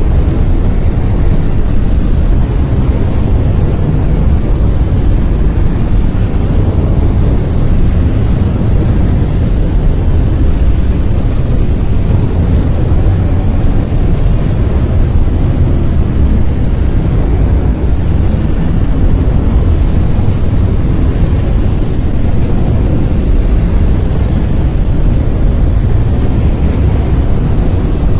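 Steady brown noise: a deep, even rumbling hiss, strongest in the lows and fading toward the highs, with no changes.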